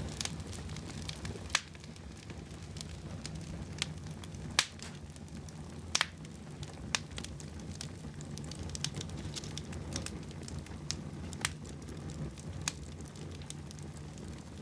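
Wood fire burning in a fireplace: a steady low rumble of the flames with irregular sharp crackles and pops, a few of them louder than the rest.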